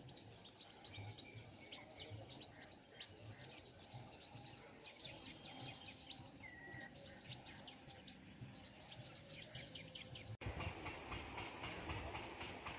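Small birds chirping and trilling, faint, with several quick rattling trills and one short whistled note. About ten seconds in, the sound cuts abruptly to a louder, rough noise with a fast, even ticking.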